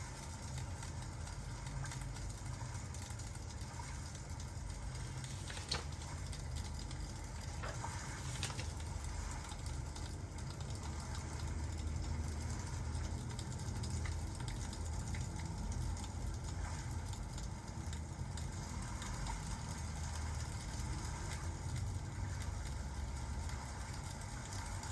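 Ambient crackling fireplace and rain: a steady low rumble with a light hiss over it and a few sharp crackles.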